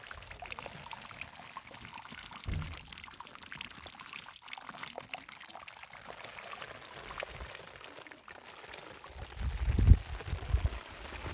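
Steady rushing hiss with faint scattered crackles, and wind buffeting the microphone in heavy low gusts, briefly a couple of seconds in and strongly near the end.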